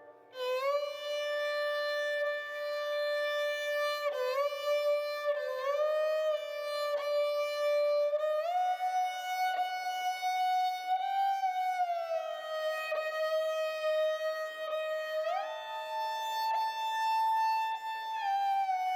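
Background music: a slow solo melody on a violin-like instrument, long held notes joined by smooth slides up and down in pitch.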